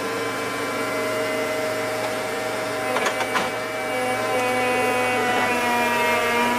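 A motor running steadily with a whine that shifts pitch about four seconds in, and two sharp clicks about three seconds in.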